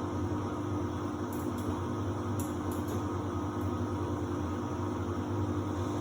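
Samsung WD70T4047CE washer-dryer running in its drying phase: a steady hum from the drying fan and drum motor, with a few faint high clicks.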